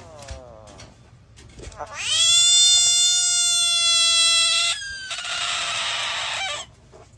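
A cat gives a short falling meow, then a loud, long yowl held at a steady pitch for nearly three seconds. A harsh, hiss-like noise of about a second and a half follows and cuts off.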